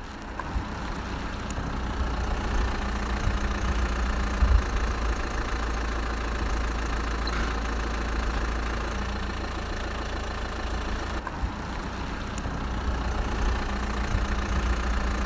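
A motor running steadily, with a constant low rumble and a faint hum underneath.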